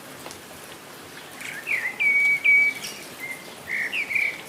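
Bird singing over steady water noise: a run of clear whistled notes starting about a second and a half in, several opening with a quick upward flick and then held level. The bird notes are the loudest sound.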